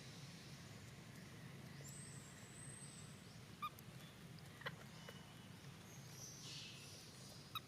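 A few faint, short high squeaks over a quiet background, the kind of calls a baby monkey makes; two stand out in the middle, about a second apart.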